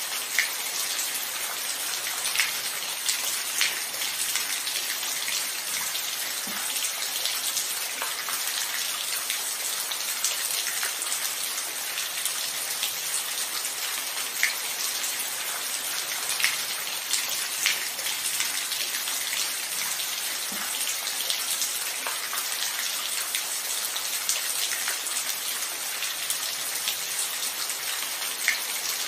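Steady rainfall, an even hiss with individual drops ticking sharply here and there, including a few louder nearby drips.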